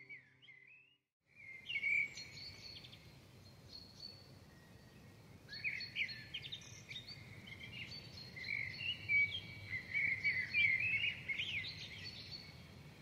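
Several birds chirping and singing over a steady hiss of outdoor ambience, after a brief silent gap about a second in; the calls are busiest toward the end.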